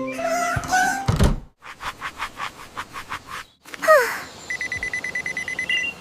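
Animated sound effects: a quick run of knocks, then a short falling whistle-like glide, then a steady pulsing electronic beep.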